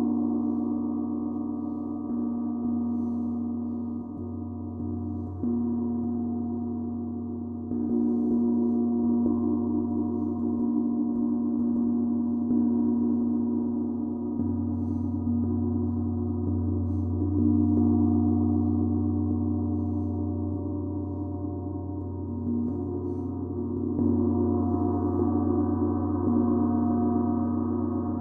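Deep, sustained ringing drone of a sound-bath instrument, building up again every few seconds as it is struck anew, with low hums carrying under it.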